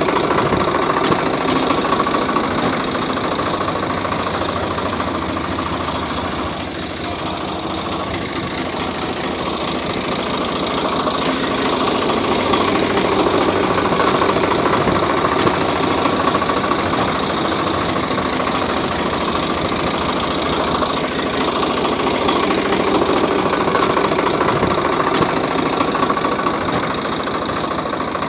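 Small electric motor and gearbox of a homemade model tractor running steadily, a continuous rapid rattling whir.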